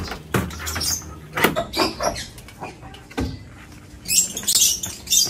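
Wood and tools being handled and set down: a handful of separate knocks spread out, then a quick run of scraping, rustling handling noises near the end.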